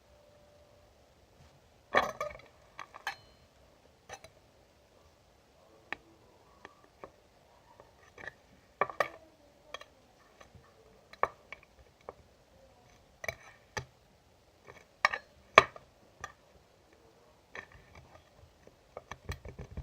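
Irregular clinks and clatter of hard objects being handled, like dishes or glassware, some with a brief ring. The loudest come about two seconds in and twice more around fifteen seconds in.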